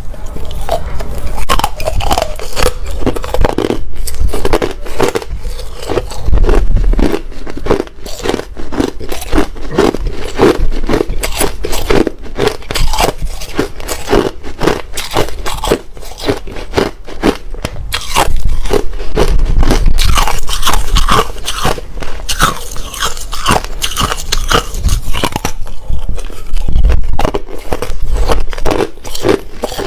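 Hard ice being bitten and chewed: a steady run of sharp, irregular cracks and crunches.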